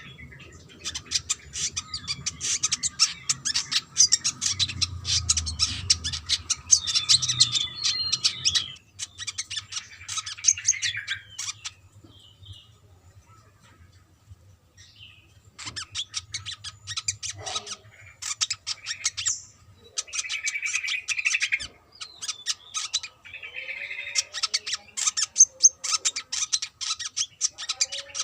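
Brown-throated sunbird singing: long bursts of very fast, high-pitched twittering and chattering notes, a few seconds each, broken by short pauses.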